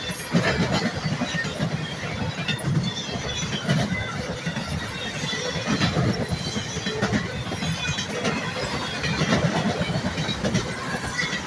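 Train cars rolling past, the wheels clattering and squealing on the rails.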